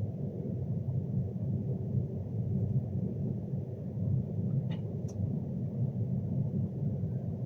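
Steady low rumble of a Class 390 Pendolino electric train, heard from inside the passenger carriage, with two short clicks about five seconds in.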